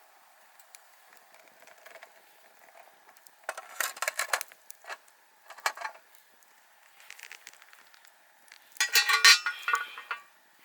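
Metal cookware and utensils clinking and clattering: a short run of clinks about three and a half seconds in, a single clink near six seconds, and a louder rattle with a ringing tone about nine seconds in.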